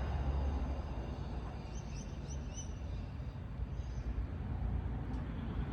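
Steady low outdoor rumble with a few short bird chirps about two seconds in.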